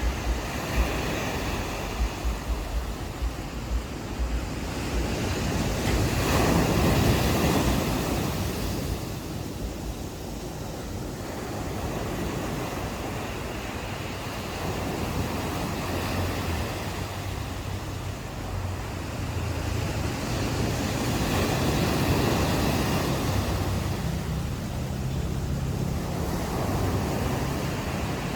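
Ocean waves breaking and washing up on the shore, the surf swelling twice, with wind buffeting the microphone at the start. A low steady hum comes in near the end.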